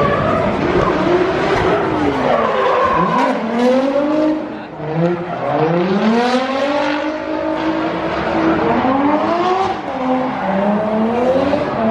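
Car engine at high revs, its pitch climbing and dropping several times as the throttle is worked, with tyre squeal: a drift run.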